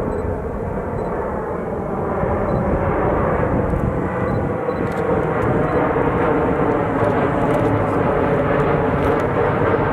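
Jet airliner engines: a loud, steady rushing noise with a faint humming tone in it, growing louder over the first few seconds and then holding.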